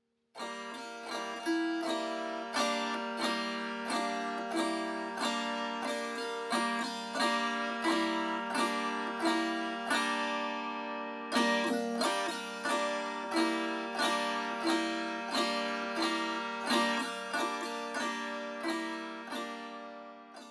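Gusli, the Russian plucked zither, playing a ringing melody in a steady rhythm of plucked notes over a held low note; it fades out near the end.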